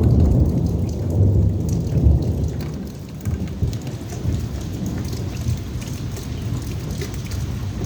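Heavy rain falling steadily, with a low rumble of thunder over the first two to three seconds that then dies away.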